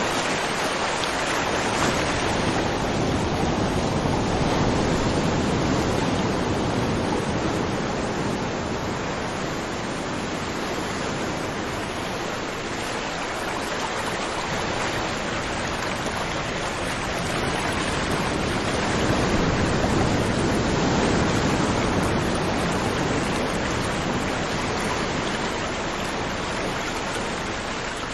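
River water rushing over rocks: a steady, dense flow that swells and eases only slightly.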